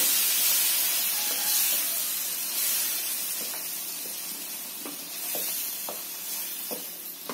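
Goat lung pieces in a wet coconut-pepper masala sizzling in a hot nonstick pan while a wooden spatula stirs them, with faint scattered taps and scrapes of the spatula on the pan. The sizzle eases off gradually.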